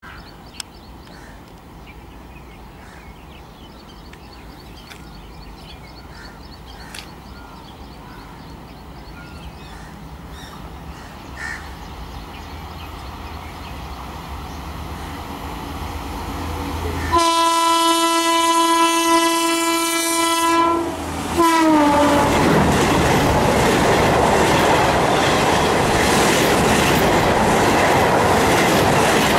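An ABB WAP-5 electric locomotive approaches at speed with a slowly rising rumble. It sounds its horn for about four seconds, and the horn drops in pitch as the engine passes. Its IRY-IR20 coaches then rush by with a loud rolling clatter of wheels over the rails.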